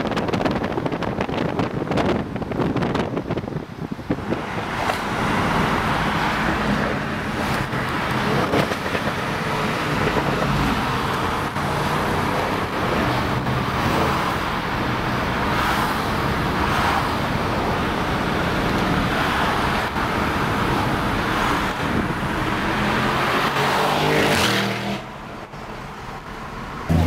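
Audi RS6's tuned twin-turbo V8 running through a Milltek exhaust while driving, a steady engine note heard from a car running close by, with wind buffeting the microphone in the first few seconds. Near the end the note rises briefly, then the sound drops away sharply.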